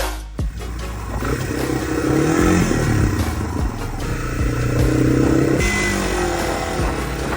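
Yamaha TW200's single-cylinder four-stroke engine running on a ride, its pitch climbing as it accelerates and dropping back at gear changes, then holding steady for a stretch.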